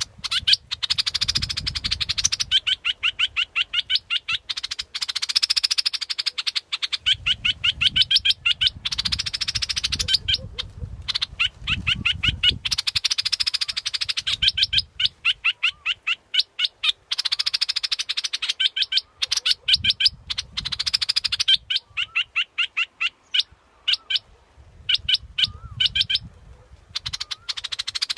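Dok taeng bulbul song used as a decoy call: phrases of rapid, chattering, sweeping notes a second or two long, repeated again and again with short gaps. A faint low rumble comes and goes underneath.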